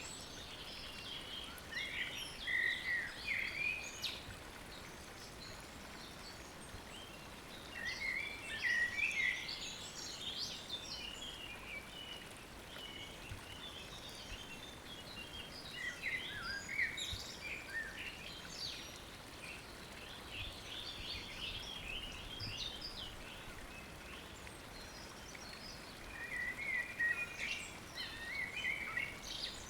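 Wild songbirds singing in short phrases every several seconds, with scattered chirps between them, over a steady faint background hiss.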